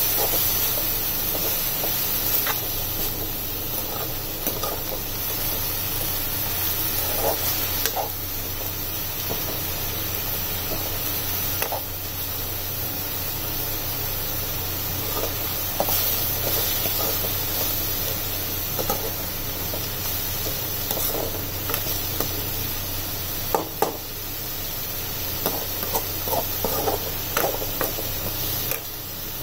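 Chopped spinach and onion sizzling steadily in hot oil in a pan while being stir-fried, with scattered scrapes and clicks of a metal spoon against the pan, more frequent near the end.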